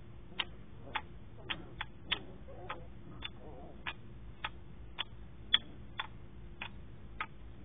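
Wooden kendama clacking in a steady rhythm, about two sharp knocks a second, as the ball is caught again and again on the cups.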